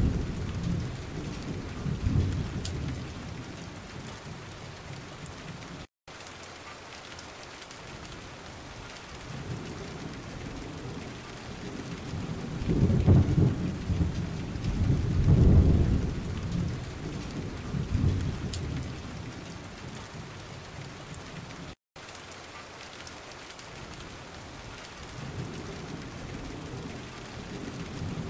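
Steady rain with rolling thunder: low rumbles swell and fade near the start, in the middle, and again near the end over an even hiss of falling rain. Twice the sound cuts out for a split second.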